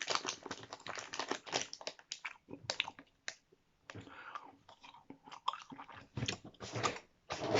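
A person chewing fizzy, sour sweets close to the microphone: irregular soft mouth clicks and smacks, with a quieter pause about halfway through.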